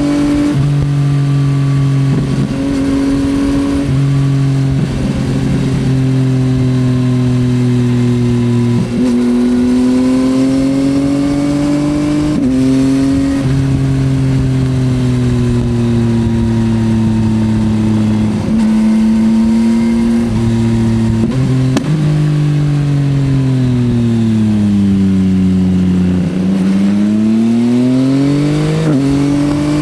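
2024 Yamaha XSR900's three-cylinder engine under way on the road, its note rising and falling as the rider accelerates and backs off, with short breaks in the note several times. About three-quarters of the way through the pitch sweeps down in a long slow-down, then climbs back up. Wind rush sits underneath.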